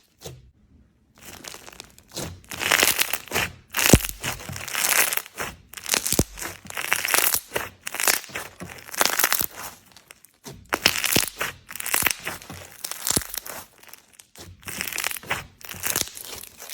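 Slime being squished and pressed, giving repeated crackly, crunchy bursts about once a second with sharp little pops among them.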